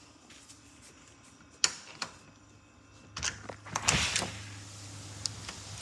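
A few sharp clicks, then a door sliding open with a rattle about three seconds in, after which a steady low hum comes in and keeps going.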